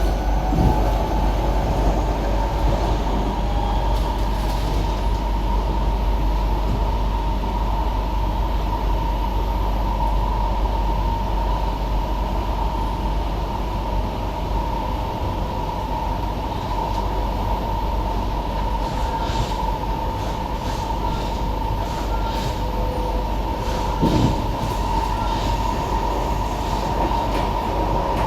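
SMRT C151B metro train running at steady speed between stations, heard from inside the car: a constant rumble of wheels on rail with a steady high whine. Two brief thumps, about a second in and near the end.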